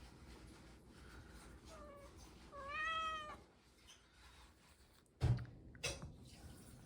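A cat meowing: a faint short call, then one louder drawn-out meow that rises and falls. Later come two sharp thumps, the first the loudest sound here.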